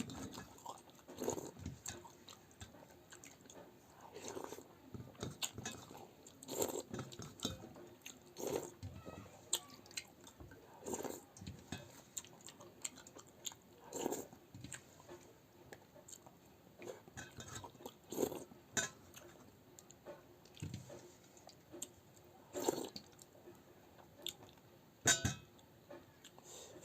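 A person eating pakhala bhata, rice soaked in water: close chewing and mouth noises, with short, irregular eating sounds every few seconds.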